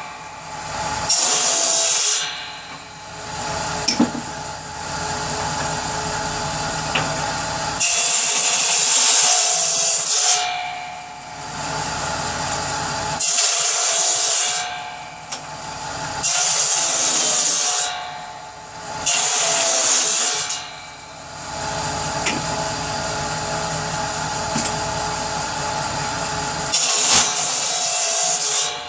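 Power saw running steadily and cutting through wood for kindling: about six separate cuts, each a hissy burst of one to three seconds over the saw's steady hum.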